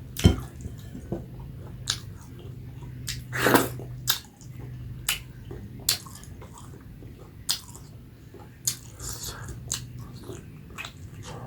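Close-miked eating: biting and chewing food, with sharp wet clicks and crunches a few times through, and one longer, louder crunch about three and a half seconds in. A steady low hum runs underneath.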